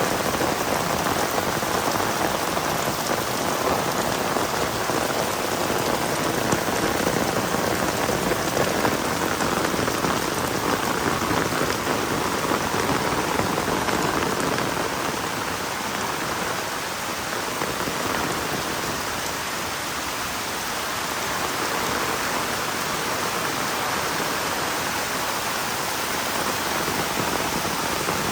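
Heavy rain falling steadily, a dense even hiss of raindrops on the ground, easing slightly for a few seconds past the middle.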